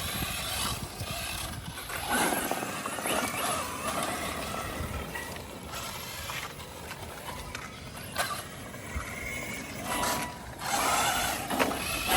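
1:8 electric RC buggy driven hard to drift, its motor whining up and down in surges over a steady noise of the wheels on wet ground.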